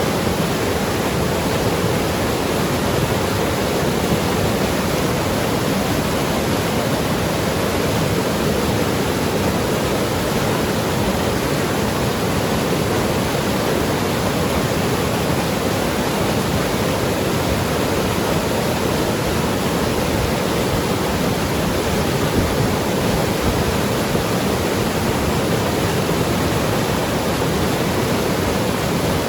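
Mountain river rushing and gurgling over rocks, a steady even rush of water.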